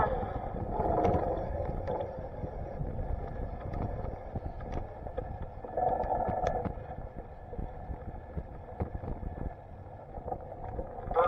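Riding a bicycle on a trail: low rumble of wind on the microphone and tyres, with scattered small clicks and rattles from the bike.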